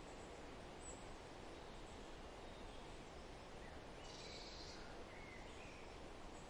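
Faint forest ambience: a steady background hiss with a few faint, short bird calls, including a brief high trill about four seconds in.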